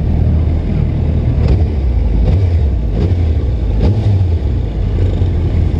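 Motorcycle running at low speed, a steady low rumble.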